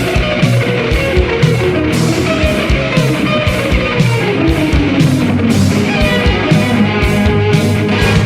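Heavy metal instrumental passage: electric guitar over a steady drum beat, with a long falling melodic line about four to six seconds in.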